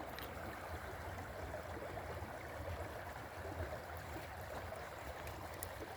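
Creek water running with a steady, even rush, and a couple of faint clicks near the end.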